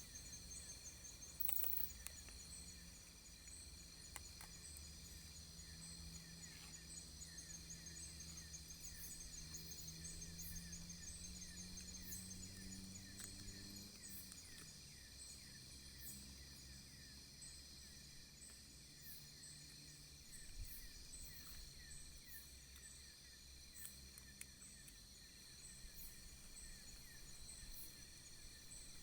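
Faint outdoor insect chorus: steady high trills with evenly repeating chirps. Underneath runs a low hum that rises slowly and stops about halfway through.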